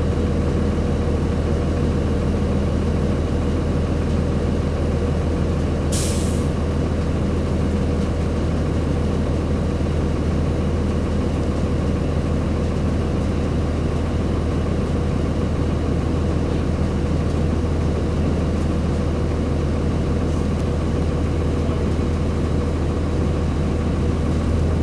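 Cummins ISC straight-six diesel of a Blue Bird CS transit bus idling steadily, with one short, sharp air hiss from the air brakes about six seconds in.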